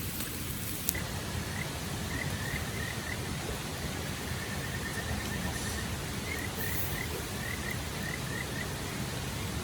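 Outdoor ambience: a steady hiss with a small animal's short, high chirps, several a second, coming in two runs, the first about a second and a half in and the second past the middle.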